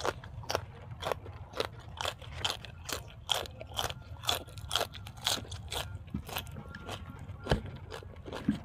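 A person chewing a mouthful of food close to the microphone, with crisp crunches about two to three times a second.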